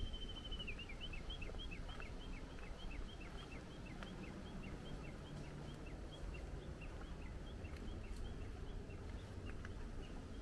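A bird calling in a long, fast series of short falling notes, about four a second, fading near the end, over a low steady rumble.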